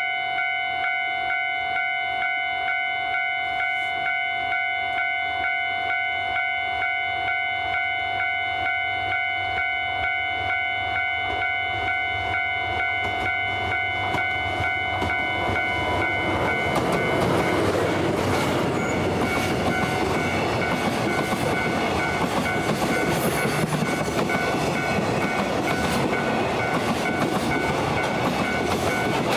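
A level-crossing warning bell ringing in steady even pulses; a little past halfway a DF200 diesel-electric locomotive hauling a container freight train passes close by, and the noise of its engine and wheels on the rails swells over the bell.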